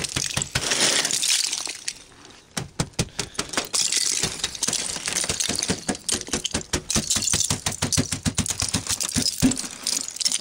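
Thick ice being scraped and chipped off a car. A scratchy scraping opens it, then comes a quick run of sharp cracks and clinks as pieces of ice break away.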